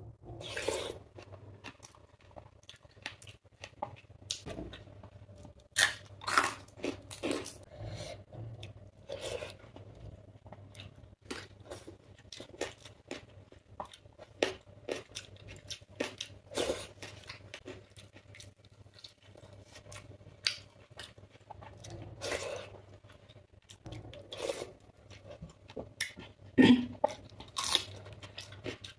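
A person chewing crisp fried food close to the microphone, with irregular sharp crunches.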